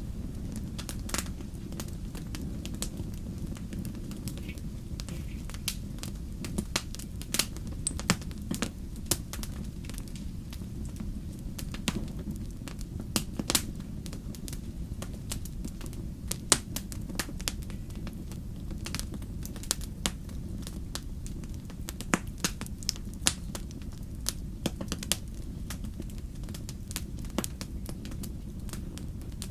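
Wood campfire crackling: irregular sharp pops and snaps, some louder than others, over a steady low rumble of the burning fire.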